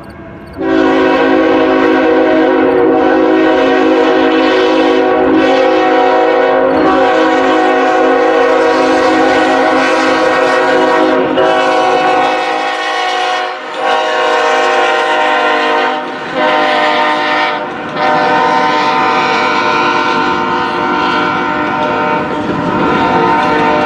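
Diesel freight locomotive's air horn sounding loudly. It comes in about half a second in and is held for a long stretch, then sounds in several more long blasts with brief breaks between them.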